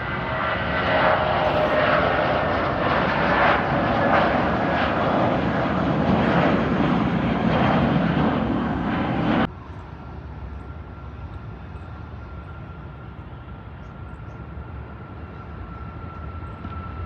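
Jet airliner engines, loud and growing louder, with a whining tone. About nine and a half seconds in the sound cuts off abruptly to a much quieter, steady jet whine with a thin high tone.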